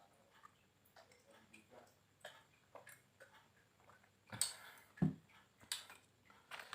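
A person eating close to the microphone: soft chewing and wet mouth clicks, with a few louder smacks about two-thirds of the way through.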